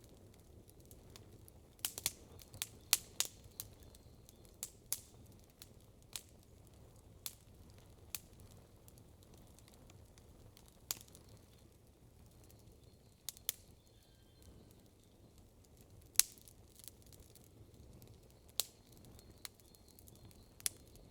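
Campfire crackling: burning wood giving irregular sharp pops and snaps, with a quick flurry about two to three seconds in and the loudest single pop about sixteen seconds in, over a faint low steady background.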